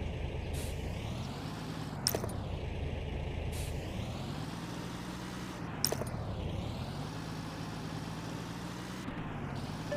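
A small motor running steadily, its pitch dipping and recovering three times, with two sharp clicks about two and six seconds in.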